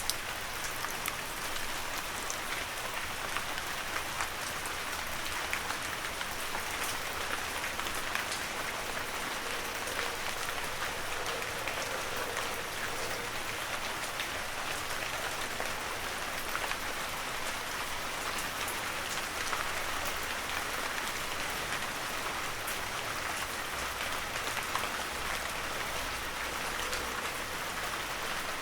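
Heavy rain falling steadily, a dense hiss of drops with many separate close drop impacts ticking through it.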